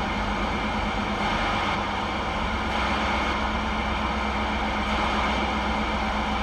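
CB radio receiver giving a steady, even static hiss with a low hum between transmissions: no station is getting through on weak, fading skip conditions.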